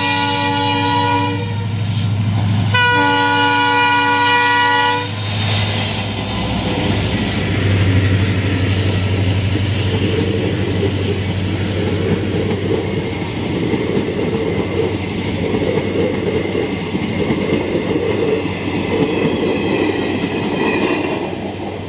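Diesel locomotive of a passenger train sounds its horn twice in the first five seconds, the second blast about two seconds long, over the deep drum of its engine. Then the coaches pass close by with a steady rumble and clatter of wheels on the rails.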